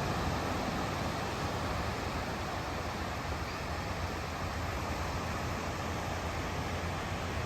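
Ocean surf breaking on a beach: a steady wash of wave noise.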